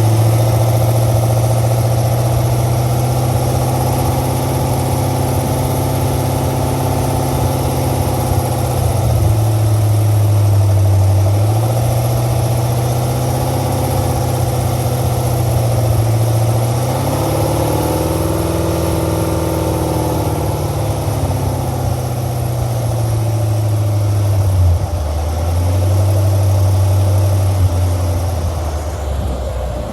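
Corvette C7's LT1 6.2-litre V8 idling, with the ticking noise that is under investigation. The engine speed rises briefly a little past halfway and settles back.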